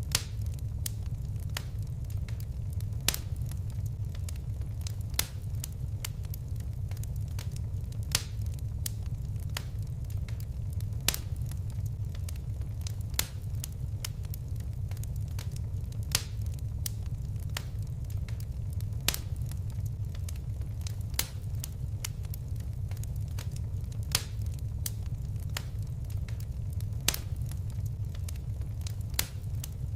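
Fireplace fire crackling: a steady low rumble of flames with sharp pops and snaps every second or so, the loudest every two to three seconds.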